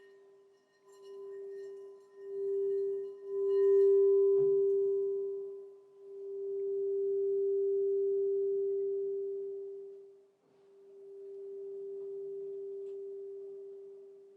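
Crystal singing bowl ringing with one pure, steady tone that swells and fades several times. There is a light knock about four and a half seconds in.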